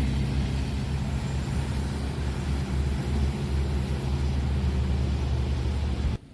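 A train passing a level crossing: the steady low drone of a diesel locomotive's engine over the rush of wheels on rail. The sound cuts off abruptly near the end.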